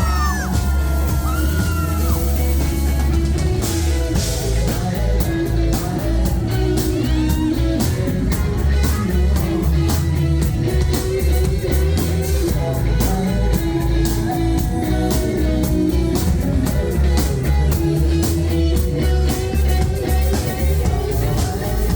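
Rock band playing live, with electric guitar, bass and a drum kit. Fast, steady cymbal strokes come in about three seconds in and carry on under the band.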